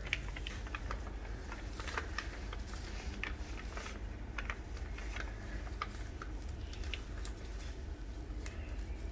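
Light rustling and small scattered clicks of fresh coriander stalks being handled and gathered into bundles, over a steady low hum.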